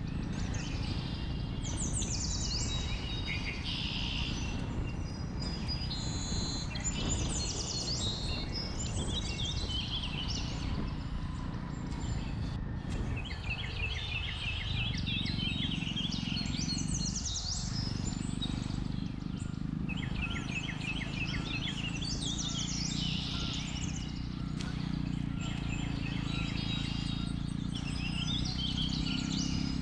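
Forest birds chirping and trilling, with several runs of quick repeated notes, over the steady low rumble of a Jawa 42 motorcycle's single-cylinder engine running on the move.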